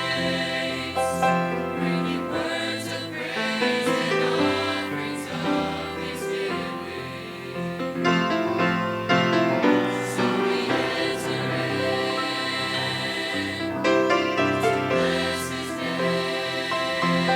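Mixed choir of young men and women singing a gospel worship song in harmony, with sustained chords changing every second or two.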